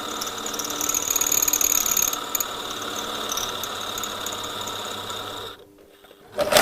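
Power drill running steadily, its bit squealing against very hard steel and making little headway. It stops about five and a half seconds in, and a short loud noise follows near the end.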